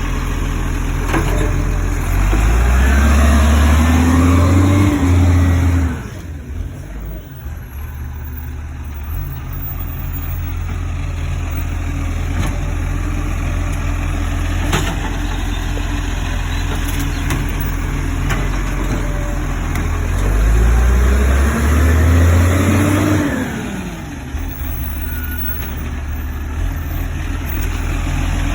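Garbage truck engine idling, revving up twice for a few seconds each: once near the start and again about two-thirds of the way through, the pitch rising then falling back to idle.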